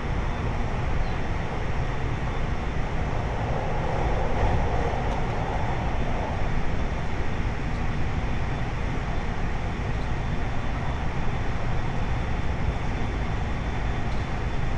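Running noise of a 521-series electric multiple unit travelling steadily along the line: a continuous rumble of wheels on rail, with a faint steady high tone.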